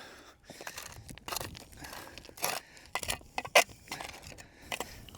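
Irregular crunching and scraping of gravelly dirt and small stones being handled, with several sharp clicks of stone, the loudest about three and a half seconds in.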